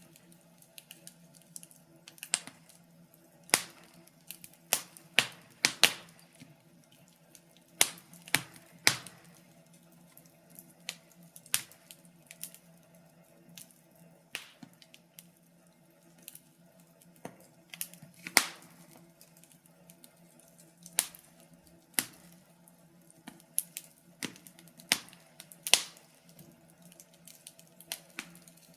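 Wood fire crackling: sharp, irregular pops and snaps, roughly one a second and sometimes in quick clusters, over a faint steady low hum.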